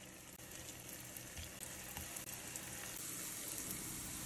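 Jamaican fried dumplings sizzling as raw dough rounds are laid one by one into hot olive oil in a frying pan, the sizzle growing louder as more go in.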